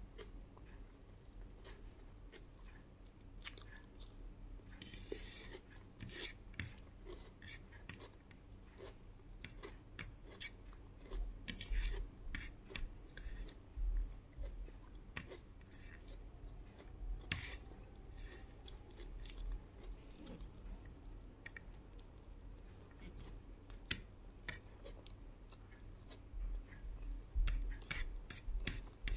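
A person chewing a mouthful of rice, fried fish and tomato, with irregular clicks and crackles of the mouth and food.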